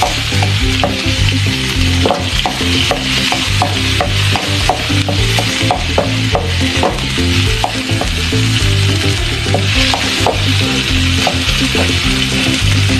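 Onions, garlic and ginger sizzling in hot oil in a wok, with a wooden spatula stirring and knocking against the pan in frequent short clicks, a few a second.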